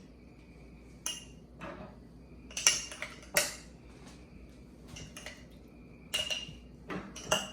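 A spoon clinking and scraping against a glass mason jar while stirring thick yogurt, in scattered separate knocks.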